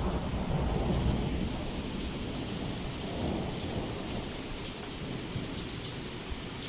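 Heavy rain pouring against a window, with a low rumble of thunder that dies away over the first couple of seconds and swells faintly again a little later. A few sharp drips stand out, the loudest near the end.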